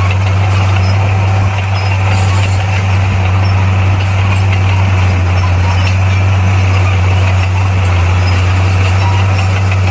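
Heavy earthmoving machine's diesel engine running at a steady, unchanging pitch: a loud low drone.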